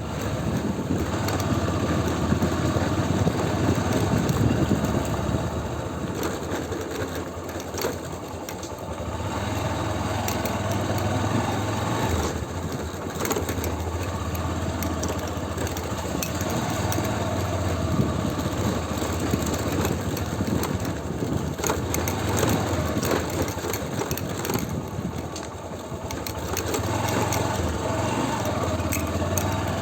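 Motorcycle engine running steadily while riding, with a constant rush of road and wind noise over it. The engine eases off briefly twice.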